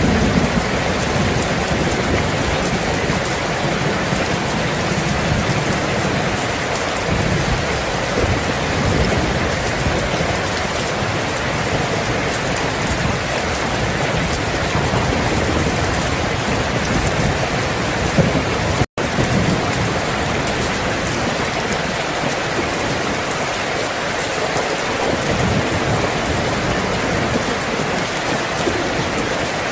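Steady heavy rain, with low rumbles of thunder in the first half that die away later. The sound cuts out for an instant about two-thirds of the way through.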